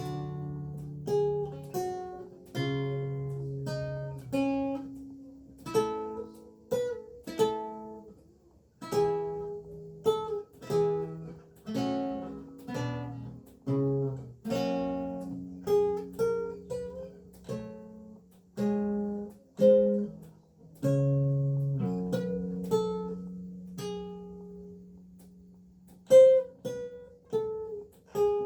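Renaissance lute with gut strings played solo: plucked chords and single melody notes that ring and die away over held bass notes, at an unhurried pace.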